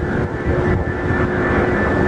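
Jet airliner engines running loud nearby: a heavy rumble with a steady whine over it.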